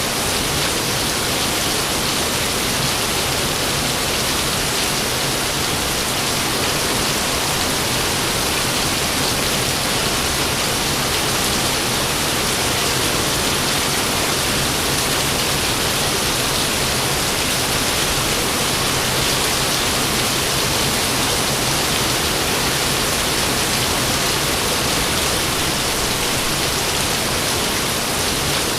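Steady rain falling: an even, unbroken hiss with no thunderclaps.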